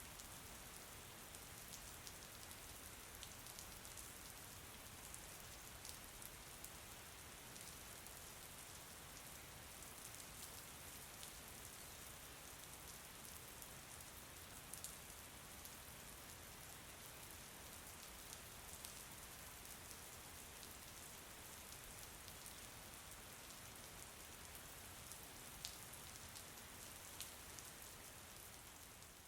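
Faint, steady rain falling, with scattered ticks of individual drops.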